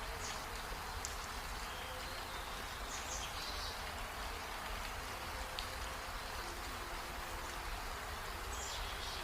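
Heavy rain falling steadily, an even hiss with a few brief high-pitched sounds over it.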